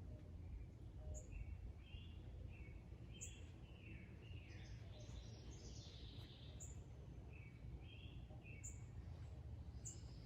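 Songbirds chirping and singing faintly: short chirps with a brief high note repeated every second or two, over a low steady outdoor rumble.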